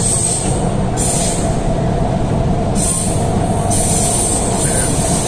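MTR K-stock train running at speed through a tunnel, heard from inside the car: a loud, steady rumble of wheels on rail, with a high hiss that fades and returns a few times.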